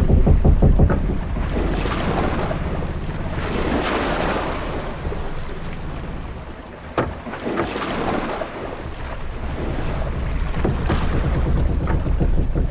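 Sea ambience of a sailing ship: wind and waves washing, over a low rumble that eases off midway and builds again, with a single sharp knock about seven seconds in.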